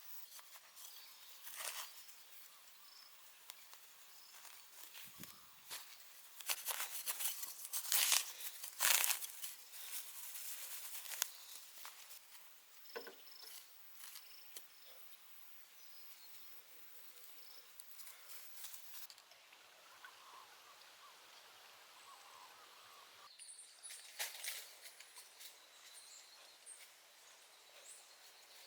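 Intermittent rustling and scraping, loudest in a cluster about seven to eleven seconds in, over faint steady outdoor noise.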